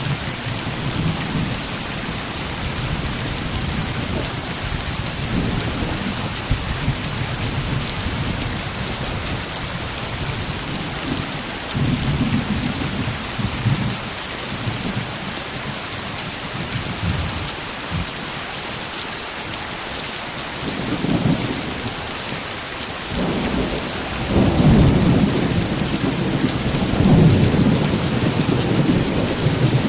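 Heavy rain falling steadily, with low rolling rumbles of thunder: a few brief ones partway through and a longer, louder rumble over the last several seconds.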